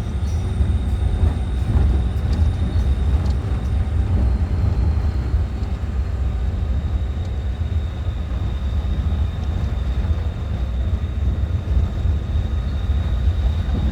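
4x4 truck on the move, a steady loud low rumble of engine and rough-road noise, with a thin steady high tone above it.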